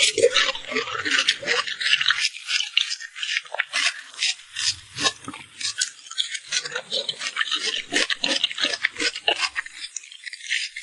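Close-miked eating sounds: fast, wet clicking and smacking of chewing mouthfuls of soft cake, with short pauses.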